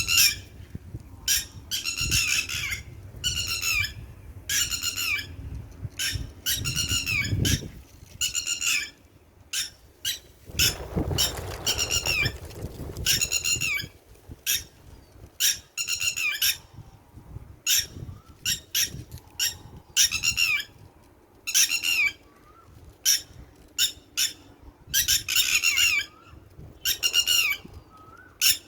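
Red-wattled lapwings calling over and over: loud, harsh, repeated alarm notes, each a short call that bends downward in pitch, coming in irregular bursts. A low rumble sits under the calls in places.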